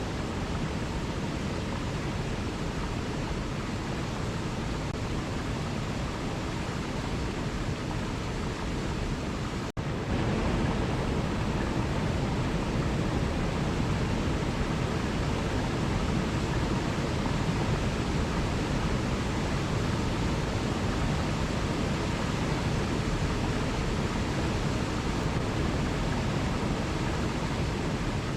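Steady, even rush of a waterfall. A split-second dropout comes about ten seconds in, and after it the water runs slightly louder.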